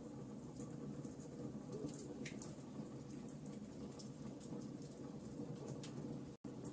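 Wood fire burning in a fireplace: logs crackling with scattered small pops over a steady low rumble of the flames. The sound drops out for an instant near the end.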